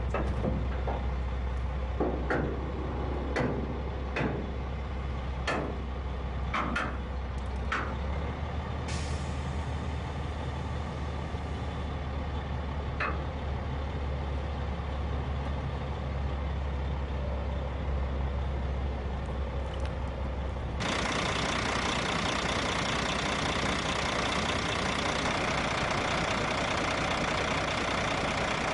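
1998 International 2674 dump truck's diesel engine idling steadily, with a few sharp clicks and knocks over the first several seconds. About two-thirds of the way through, the engine note gives way to a louder, steady rushing noise.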